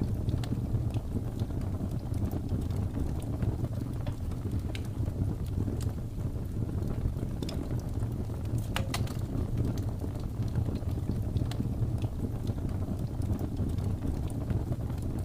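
Wood fire crackling, with scattered sharp pops and a short cluster of them about nine seconds in, over a steady low rumble.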